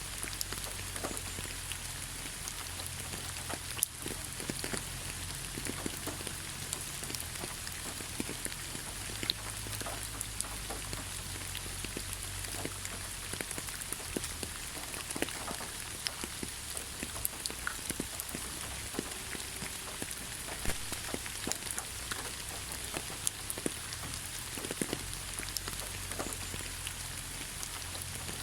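Steady rain falling in a forest, an even hiss with many separate drops pattering and dripping on leaves and surfaces.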